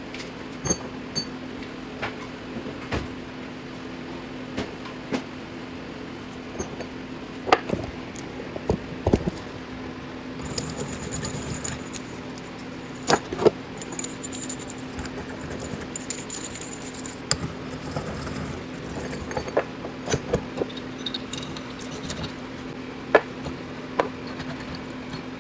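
Steel tools clinking and knocking against metal while a bearing splitter is worked onto a wheel bearing's inner race, in irregular sharp clicks, over a steady low hum. A faint high whine comes in about ten seconds in and fades a few seconds later.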